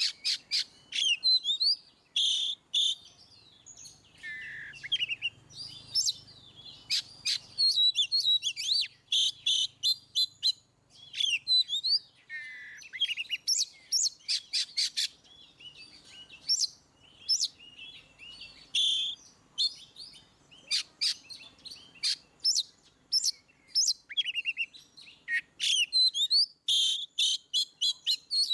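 Oriental magpie-robin (kacer) singing a long, loud, freely flowing song of rapid chattering notes, clear whistles and sweeping glides, with short pauses between phrases.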